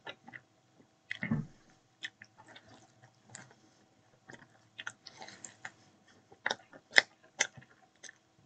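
A person chewing and biting a slice of pizza close to the microphone, with irregular sharp mouth clicks. There is a dull thump about a second in.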